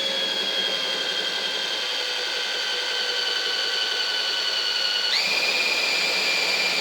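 Electric drill running steadily as a small 1–1.5 mm bit bores a pilot hole through a car's rear valance panel; the bit is blunt. Its whine steps up in pitch about five seconds in.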